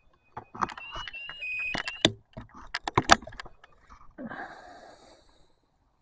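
Electronic beeping tones from ghost-hunting gear, stepping between pitches, with a run of clicks and knocks as the equipment is handled over the first three seconds. About four seconds in comes a brief breathy rustle.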